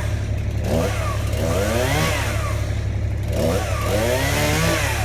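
Chainsaw engine revving up and dropping back in repeated surges, about twice within a few seconds, over a steady low engine hum.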